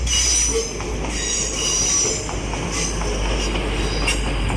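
Class 185 diesel multiple unit moving along the platform, its wheels squealing high-pitched again and again over a steady low rumble.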